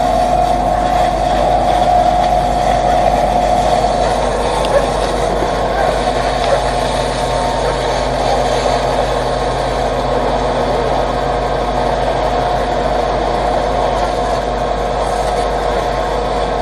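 Fire truck engine running steadily, a constant whine held over a low hum.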